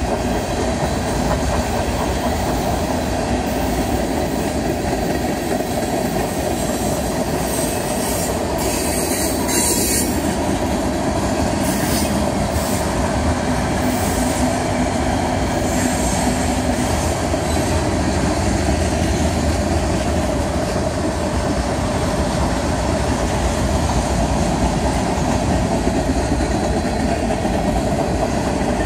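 Freight cars of a long 105-car train rolling past at speed: a steady rumble and rattle of steel wheels on the rails, with a few brief sharper sounds around ten seconds in.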